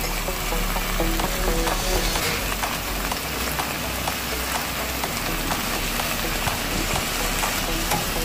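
Frozen callaloo cooking in a hot pot: a steady frying sizzle with many small crackles.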